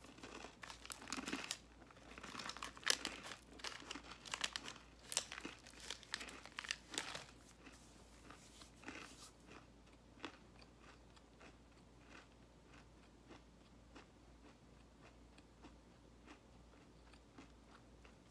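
A Nature Valley crunchy oats and honey granola bar being bitten and chewed: loud, dense crunching for the first seven seconds or so, thinning to faint, scattered chews.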